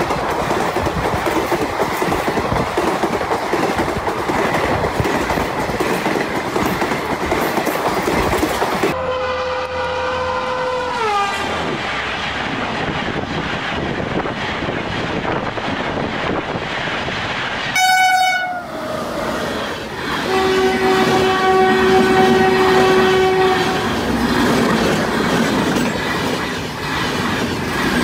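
Passenger trains rushing past at speed in several short cuts, with the steady rushing noise and clatter of the coaches' wheels over the rails. Train horns sound over it: one, about a third of the way in, drops in pitch as the train passes, and a brief one sounds just before another steady horn of about three seconds later on.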